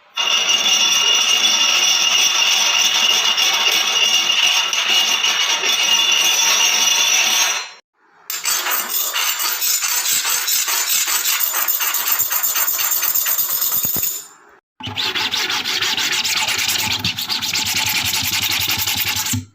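Three harsh scratching and screeching sounds, each several seconds long, cut back to back with short silences between them. The first is a steady screech with high whining tones. The second, starting about eight seconds in, is a fast run of scraping strokes. The third, from about fifteen seconds in, is a screech over a low hum.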